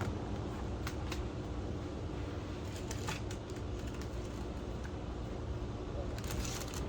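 Street ambience: a steady low rumble of road traffic, with a few short crisp noises about a second in, around three seconds in and near the end.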